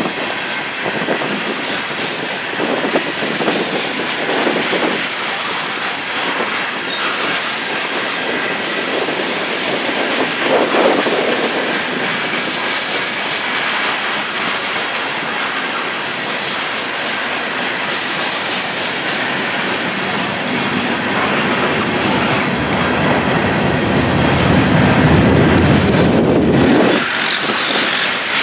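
Freight train cars of a grain train rolling past, steel wheels clicking over the rail joints. A heavier rumble builds near the end and cuts off suddenly.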